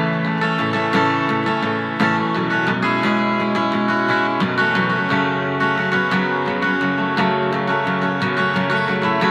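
Instrumental passage of a song: strummed acoustic guitar with a steady rhythm and sustained chords.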